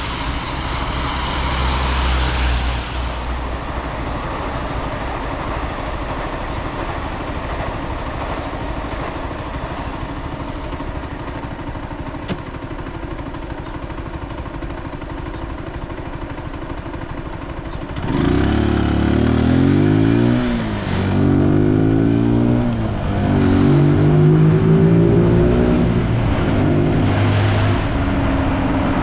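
Zontes G1 motorcycle's single-cylinder engine heard from the rider's helmet, running low and steady under a hiss of wet road for the first part. About eighteen seconds in it pulls away, its pitch climbing and dropping with each gear change.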